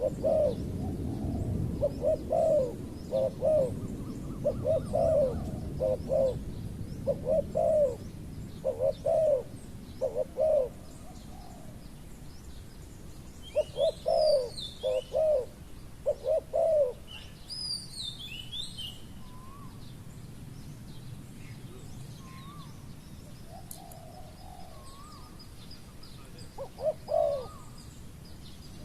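Spotted doves cooing in short repeated phrases, a burst every second or two, falling quieter after about 17 seconds with a last phrase near the end. A few high, thin chirps from smaller birds come in the middle.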